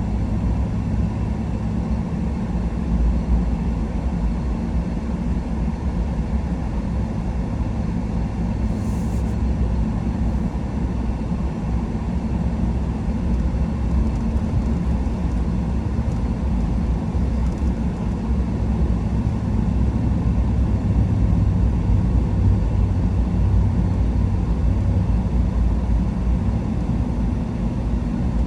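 A truck's engine and tyres giving a steady low rumble while driving, getting slightly louder about three quarters of the way through.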